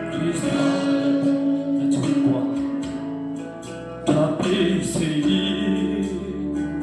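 A song: a sung melody held in long notes over guitar accompaniment with light percussion, the music swelling fuller about four seconds in.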